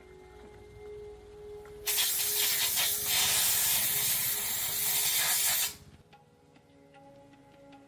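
A loud, steady hiss from a pressurized jet, starting suddenly about two seconds in and cutting off about four seconds later.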